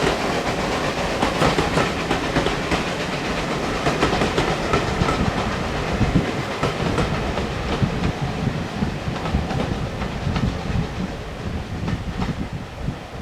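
Steam-hauled heritage train passing, its carriage wheels clattering rhythmically over the rail joints, the sound slowly fading toward the end as it moves away.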